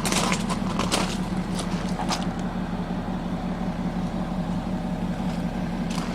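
BMW X6 xDrive40d's 3.0-litre twin-turbo straight-six diesel idling steadily, with a few short clicks in the first two seconds.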